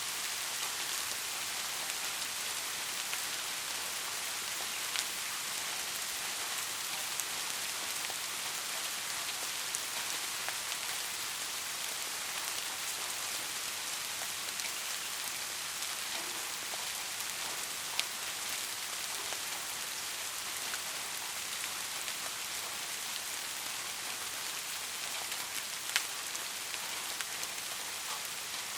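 Steady rain falling, an even hiss with now and then a single louder drop tick.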